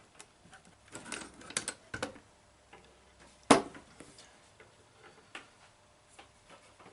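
Scattered clicks and light knocks from the metal parts of a portable drill guide being handled and worked, with one sharp knock about three and a half seconds in.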